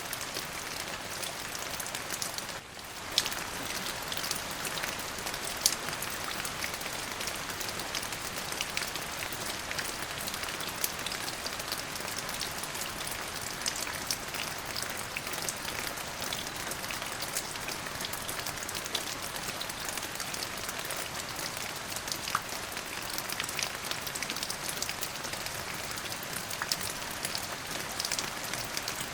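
Steady rain falling on a surface, a dense even patter with many individual drops ticking sharply, and a brief dip in level about two and a half seconds in.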